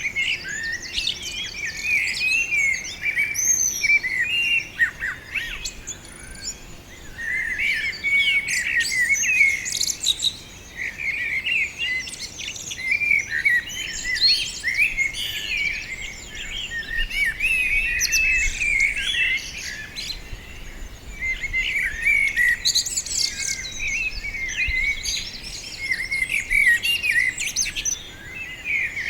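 Several small songbirds chirping and singing at once: a dense, unbroken chorus of quick, high chirps and twitters.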